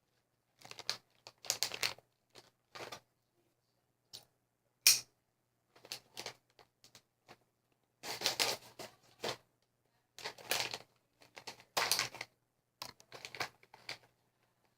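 MRE plastic packaging being handled and torn open: short bursts of crinkling and tearing, with a sharp click about five seconds in.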